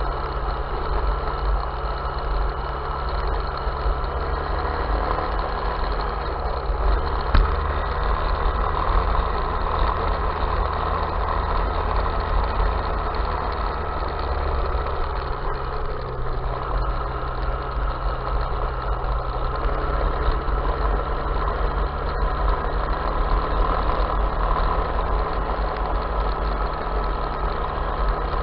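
Off-road vehicle engine running steadily at a near-constant speed, with little change in pitch.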